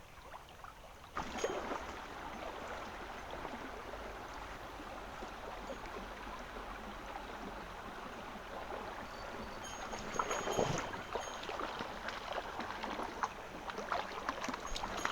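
Small mountain stream's water running in a steady rush that comes up suddenly about a second in, with a few knocks and splashes around the last third.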